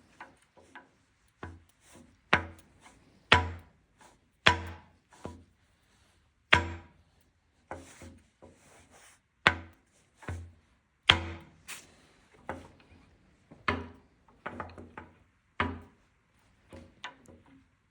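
A series of heavy knocks at irregular intervals, roughly one a second, each a sharp strike with a short low ring.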